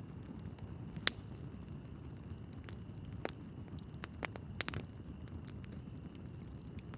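Wood fire burning in a fireplace: a steady low rumble of flames with scattered sharp crackles and pops as the logs burn, the loudest pop about a second in and a quick cluster of pops past the middle.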